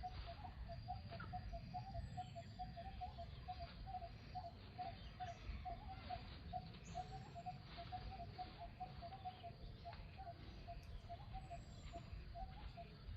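Bird calls: a rapid, even run of short chirps at one pitch, with a faint, short, high falling whistle every couple of seconds, over a low rumble.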